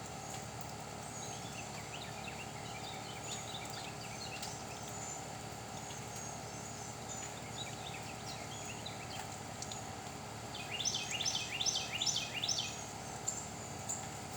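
Small birds chirping over a steady background hiss, with scattered short high calls and a quick loud run of chirps about eleven seconds in.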